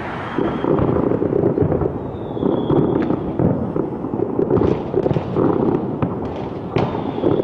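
Fireworks going off in quick succession: a dense, continuous crackle of bangs and pops, with a faint high whistle rising out of it a few times.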